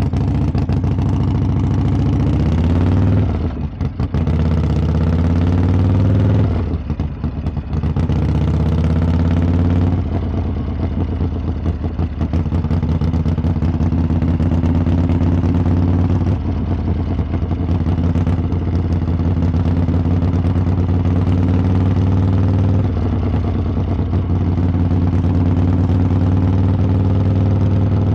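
Harley-Davidson V-twin motorcycle exhaust under way: the engine note climbs twice in the first seven seconds, with a brief dip and drop in pitch after each climb as the gears change, then settles into a steady cruise.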